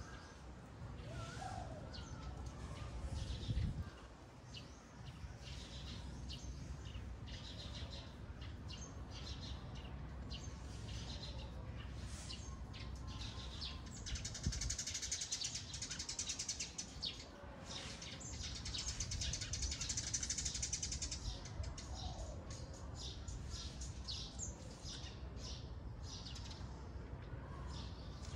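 Small birds chirping and twittering over and over, busiest for several seconds in the middle, over a steady low rumble.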